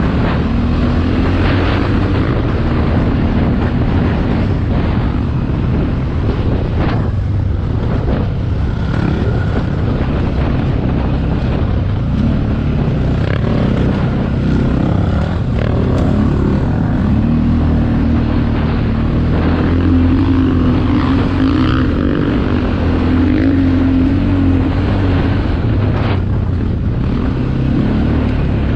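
Motocross bike engine running on a track, its pitch rising and falling as the throttle is worked.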